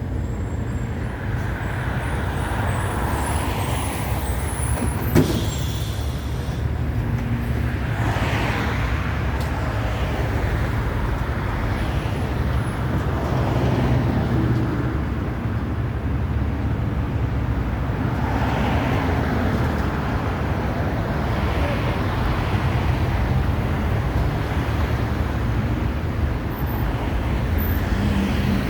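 City bus running, a steady low engine and road rumble with slow swells in pitch and loudness, and a single sharp knock about five seconds in.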